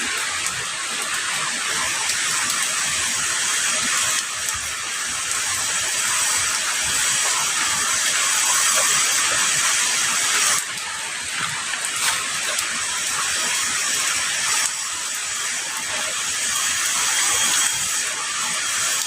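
Heavy rain falling in a steady, dense hiss. Its strength shifts abruptly a few times and drops sharply about ten seconds in.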